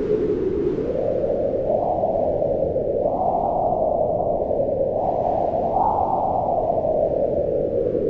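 Mountain wind howling: a loud, low rushing that swells higher in pitch in gusts about two, three and six seconds in, then sinks back.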